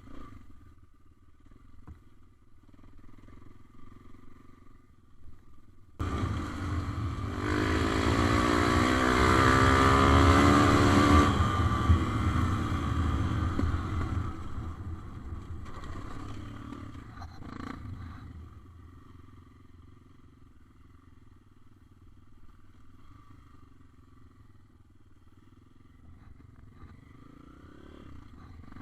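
Motorcycle engine that starts abruptly about six seconds in, revs hard with rising pitch as it accelerates, then fades away over several seconds to a faint hum.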